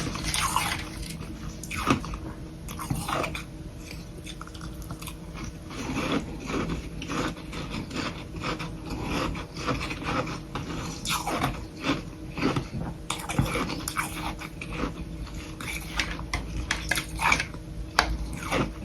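Close-miked biting and chewing of soft humidifier frost sticks: an irregular run of small soft crunches, several a second.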